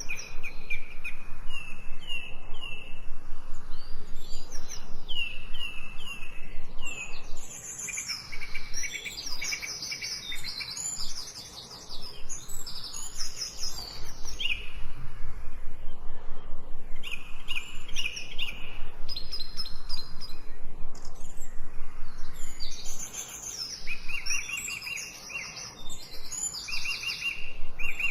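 Several songbirds singing and chirping together, with runs of short repeated notes and higher, quicker trills overlapping.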